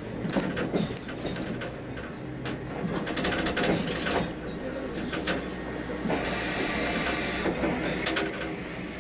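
Cab of the Choshi Electric Railway DeHa 1001 electric railcar: a low steady rumble with scattered clicks and knocks, then a burst of compressed-air hiss about six seconds in that lasts over a second.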